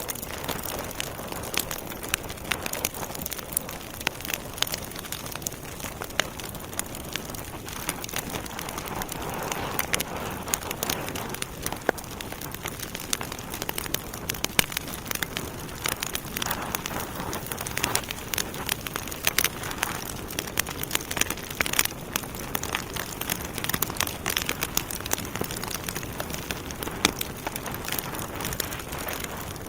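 Wood fire burning in a fireplace, logs crackling with a dense run of small snaps and occasional louder pops over a steady hiss.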